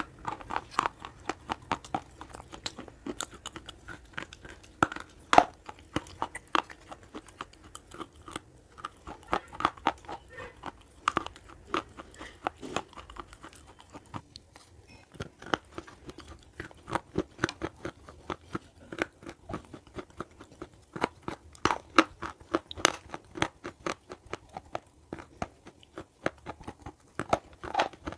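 Close-miked chewing of slate pencil: sharp, brittle crunches in quick clusters with short pauses between bites.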